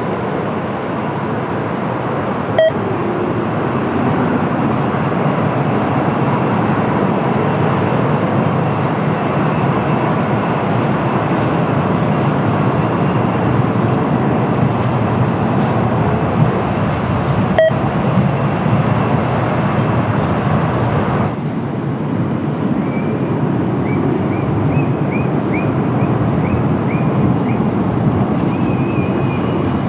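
Steady outdoor rushing noise of wind and distant aircraft engines. A faint click comes twice. About two-thirds through, the hiss changes abruptly.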